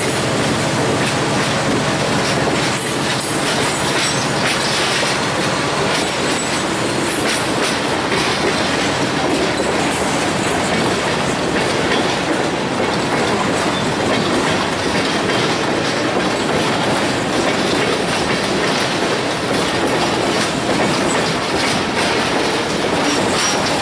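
Train of iron-ore hopper cars rolling steadily past, the wheels clicking over rail joints. A diesel locomotive's low engine hum fades out within the first few seconds.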